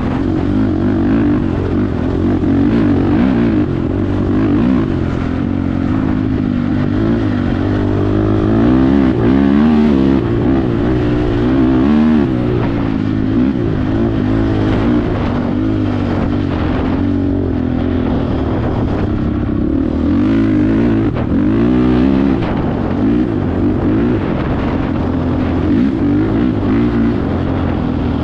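Honda TRX450R sport quad's single-cylinder four-stroke engine through an aftermarket HMF exhaust, revving up and down without a break as it is ridden hard.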